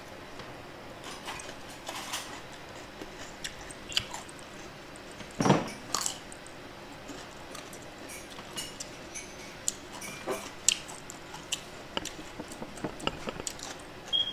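Close-up eating sounds: chewing with scattered sharp clicks and mouth smacks, one louder click about five and a half seconds in.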